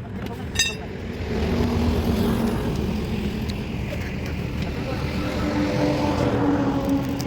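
An engine running steadily, with a single ringing metallic clink about half a second in.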